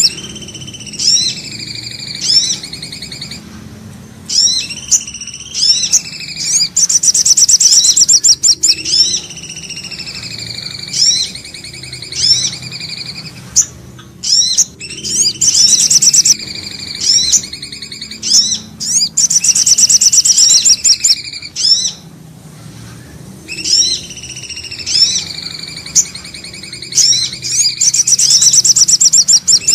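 Bird-lure recording of common iora (cipoh) and sogok ontong song: loud rapid high trills, a long falling whistle and short rising chirps, repeating in the same sequence about every eight seconds, as a looped track does.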